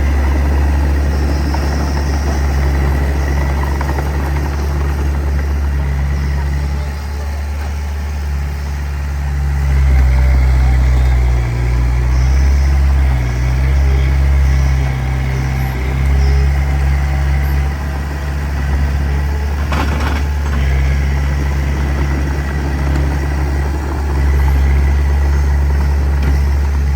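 Diesel engine of a small crawler bulldozer running steadily, its load rising and falling as it works. A single sharp knock comes about 20 seconds in.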